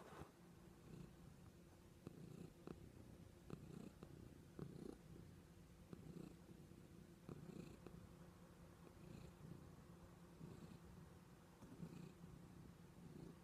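Domestic cat purring faintly and steadily, swelling softly with each breath.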